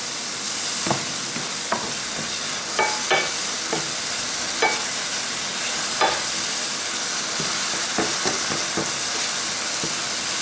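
Sliced bananas and sugar frying in a pan, sizzling steadily, while a spatula stirs them, scraping and tapping against the pan every second or so.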